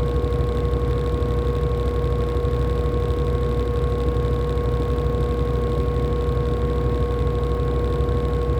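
LG top-loading washing machine running with a steady low hum and a constant whine.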